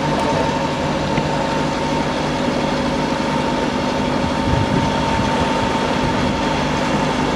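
Hire motor cruiser's inboard engine running steadily under way, a constant hum with a fixed whining tone over it, heard on board.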